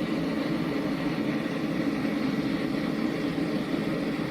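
A running blacksmith's forge giving a steady, even roar, with no hammer blows.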